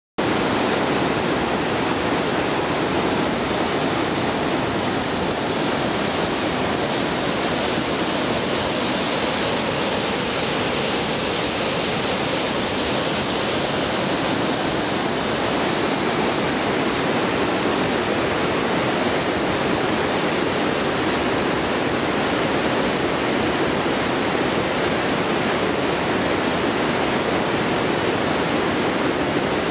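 Fukube Falls, a mountain waterfall, pouring in a loud, steady rush of falling water.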